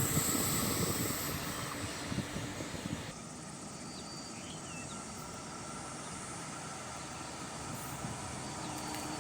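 Distant diesel train approaching: a faint, steady rumble that slowly grows louder. Rustling noise dies away about three seconds in, and a faint chirp is heard once or twice.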